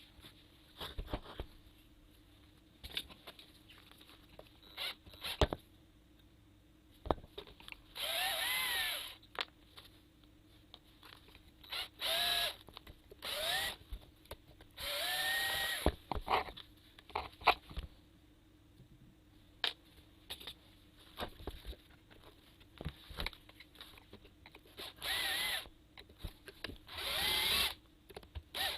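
Power drill run in short bursts of about a second, six times, its motor pitch rising and falling with each run, likely backing screws out of a water circulation motor's housing. Sharp clicks and taps of parts being handled fall between the runs.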